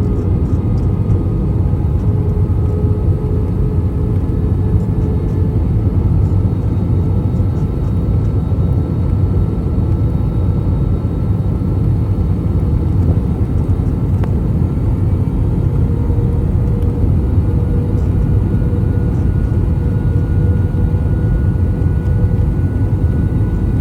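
Cabin noise inside an Airbus A321 on final approach, heard from a window seat: a steady low rumble of airflow and its IAE V2533-A5 turbofan engines. Over it runs a faint engine whine that drifts slowly in pitch.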